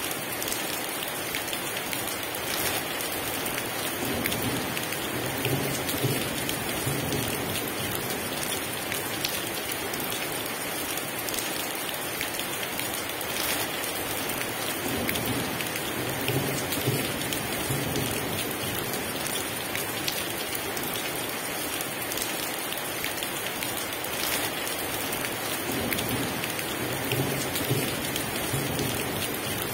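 Heavy rain pouring steadily, with low rumbles of thunder swelling up three times.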